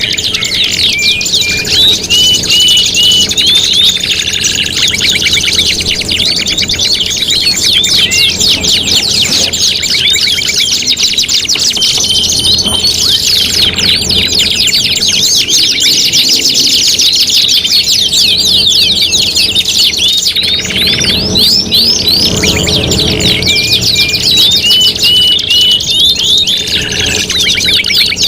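Domestic canaries singing continuously, with rapid rolling trills, fast chirp runs and short held whistle notes, several birds overlapping.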